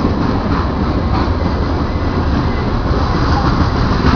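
Union Pacific freight train rolling through, a steady low rumble of wheels and cars on the rails with no let-up.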